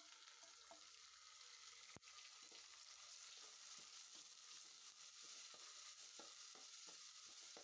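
Faint sizzling of chopped onions and tomatoes frying in oil in a metal pot, with light scrapes and taps of a steel ladle stirring them. There is one sharper click about two seconds in.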